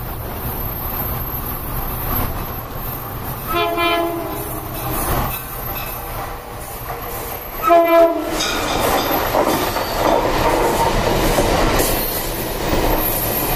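Amtrak train's horn sounds two short blasts, the second louder, as it comes into the station. Then the train rushes past on the nearby track, its wheels clattering on the rails.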